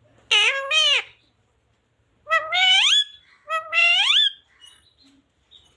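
Pet talking parrot calling in a high voice: a short two-part call just after the start, then two longer calls that each rise in pitch, around two and four seconds in.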